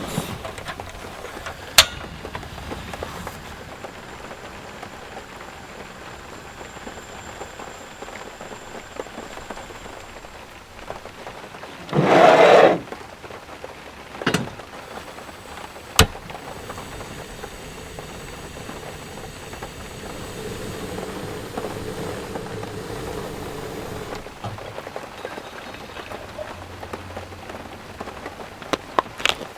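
Heavy rain falling steadily, with a few sharp clicks and a brief loud burst of noise about twelve seconds in.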